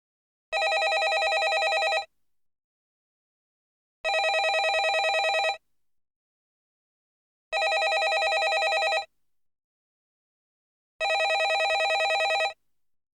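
Landline telephone ringing: four rings of about a second and a half each, with a fast warbling trill and silent gaps of about two seconds between them.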